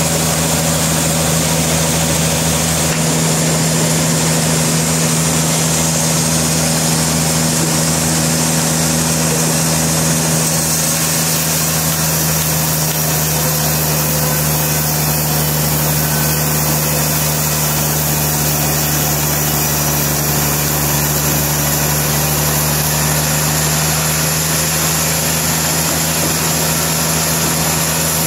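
Sawmill machinery running steadily, a constant loud low hum with an even mechanical noise over it.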